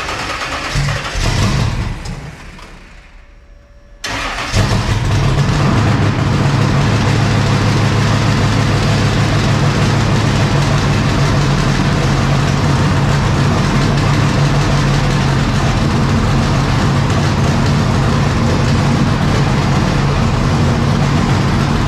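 Vehicle engine: a short burst that swells about a second in and dies away, then, after an abrupt change, an engine running steadily at idle with a deep, even note.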